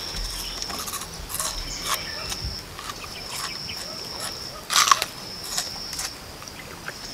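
Crunching bites and chewing of raw onion, with sharp mouth and breath noises, the loudest a little before five seconds in. A steady high-pitched insect drone runs behind, broken off now and then.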